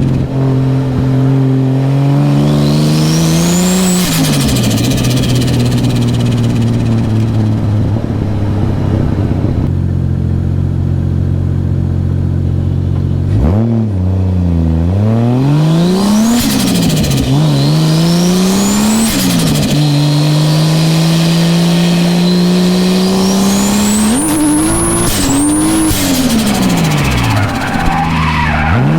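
Toyota Aristo's 2JZ-GTE twin-turbo straight-six being driven hard while drifting, revs climbing and dropping again and again with throttle lifts and gear changes. A steadier stretch comes before a sharp drop and re-climb about halfway through, and a high whistle sits over the engine near the end.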